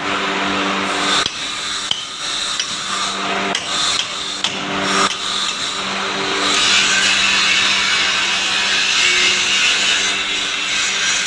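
Tools working on a truck suspension: several sharp knocks over the first five seconds above a steady hum, then a continuous scraping noise from about six and a half seconds in.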